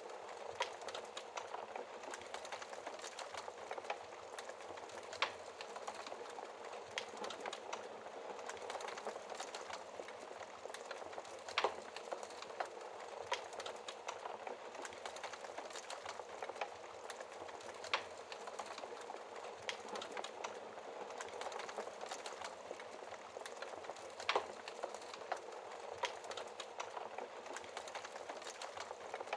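Wood fire crackling in a fireplace: a steady hiss of burning with irregular sharp pops and snaps, the loudest a little before halfway and again past halfway.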